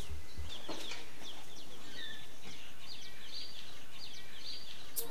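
Birds chirping over a steady background hiss of outdoor ambience.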